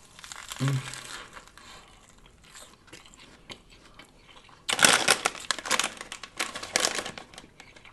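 Food packaging being handled: faint rustling, then loud, dense crinkling of paper or a wrapper for about three seconds, starting a little past halfway.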